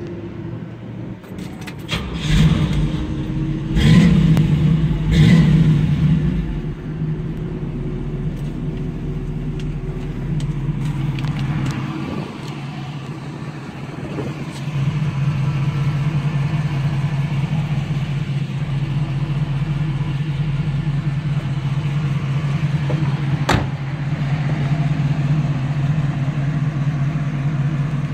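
1968 Chevrolet Camaro engine blipped three times in quick revs, then idling steadily; the idle is louder from about halfway through.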